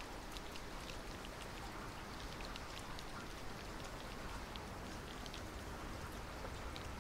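Steady rain falling, with many sharp little splashes of individual drops close by.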